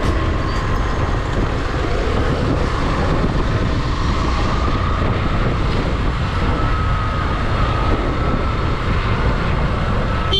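Steady rushing noise from a motorcycle on the move, with wind on the rider's microphone and the engine running under it.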